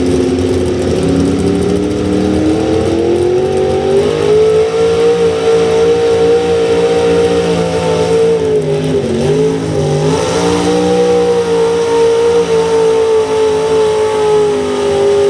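Super stock pickup truck engine running at high revs under load while pulling a weight-transfer sled, its pitch climbing over the first few seconds and then held high. About nine seconds in the revs dip sharply and pick back up before settling steady again.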